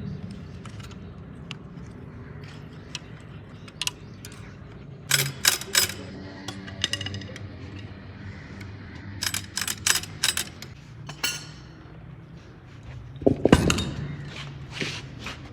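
Metal parts and tools clinking and knocking in several short clusters of sharp clicks, with a heavier knock that rings on briefly near the end.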